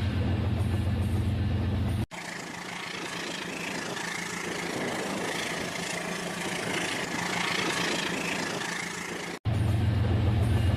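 Toy train set's small electric motor running with a steady hum. About two seconds in, a cut gives way to a longer stretch of higher, hissier running noise, and the hum returns abruptly near the end.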